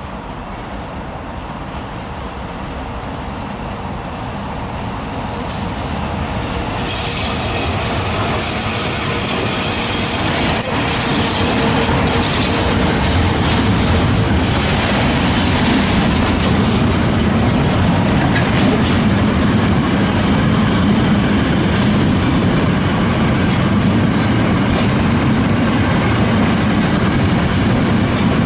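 A DB class 140 electric locomotive hauling a freight train draws near and passes, the sound growing louder over the first ten seconds, with a few seconds of high hiss as it goes by and one sharp click. A long line of hopper wagons then rolls past with a steady rumble and the clatter of wheels over the rails.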